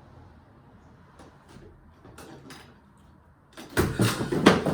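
A few faint clicks and knocks, then loud clattering and banging that starts near the end.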